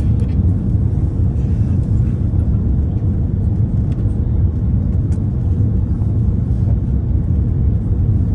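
Steady low rumble of engine and airflow noise in the passenger cabin of an Airbus A330 on approach to land, with a few faint ticks over it.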